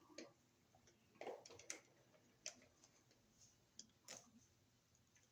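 Faint, irregular clicks and light taps of hand tools and wire against a wall receptacle while its wires are fastened to the terminal screws, about six over the few seconds.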